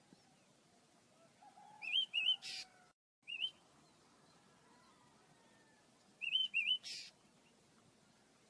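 Pet birds chirping in two short bursts about four seconds apart. Each burst is a few quick up-and-down chirps ending in a brief harsh, hissy note.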